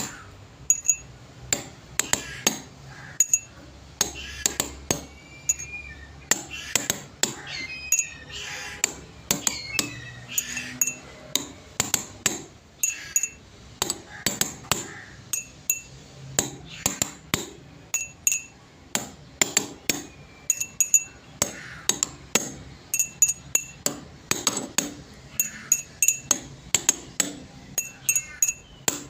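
Rapid, irregular sharp clinks and taps, several a second, each with a brief bright ring, over a steady low hum.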